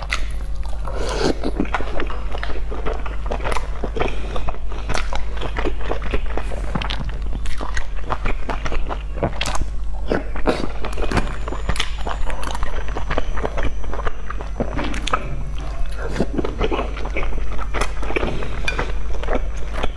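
Close-miked chewing of soft boiled dumplings: irregular wet smacks and clicks of the mouth, with a steady low hum underneath.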